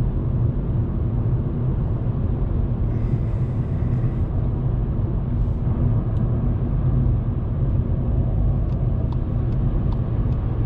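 Steady in-cabin drone of a 2019 Volkswagen Polo's 1.0-litre turbocharged three-cylinder engine at a steady cruise, with road and tyre noise underneath.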